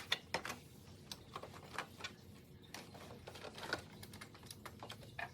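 Irregular light clicks and taps of hard plastic and a small screw being worked while an Epson L1800 printer's casing is taken apart, with one sharp click at the very start.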